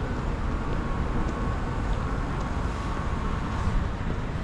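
Steady city street ambience: a low rumble of traffic mixed with wind buffeting the microphone.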